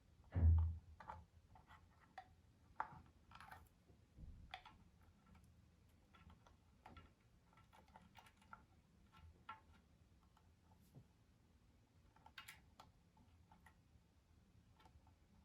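Faint, irregular light clicks and taps of small hard parts and tools being handled, with one dull thump about half a second in.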